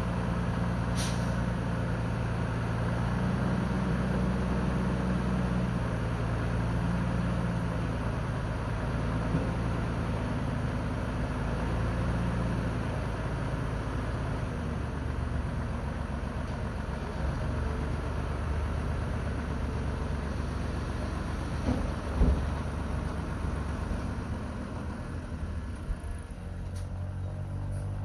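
Heavy diesel earthmoving machinery running steadily, with a couple of sharp metallic knocks late on.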